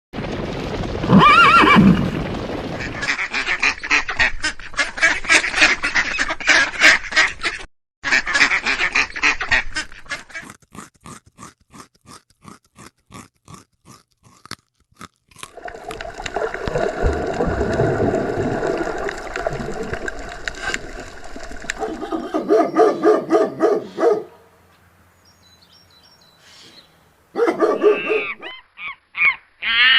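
A run of different animal calls, one kind after another, with abrupt changes between them: a call, then quick pulsed calls, a train of rapid clicks, a longer noisy stretch, and quick calls again near the end.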